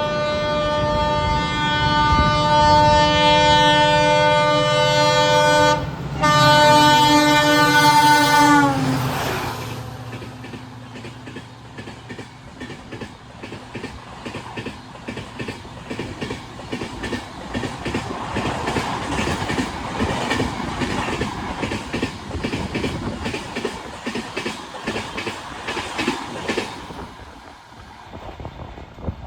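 A train passing at speed with its horn held, broken once briefly, and the horn's pitch dropping as the locomotive goes by. Then the wheels clatter rhythmically over the rail joints as the coaches pass, fading near the end.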